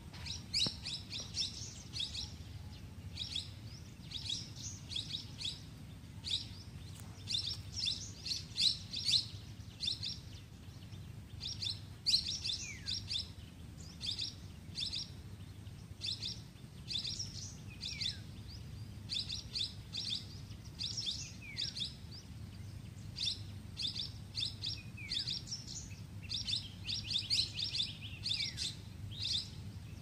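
Small birds chirping: rapid runs of short high chirps in clusters, some ending in a short falling slide, over a low steady background rumble.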